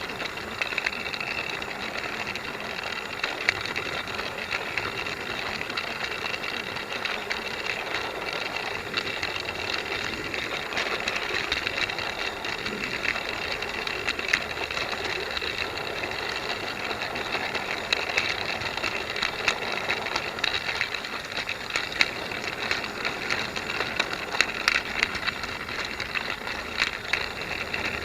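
Battery-powered Trackmaster Duck toy locomotive running on plastic track: its motor drive unit gives a steady whirr with a rattling, irregular clicking, running roughly.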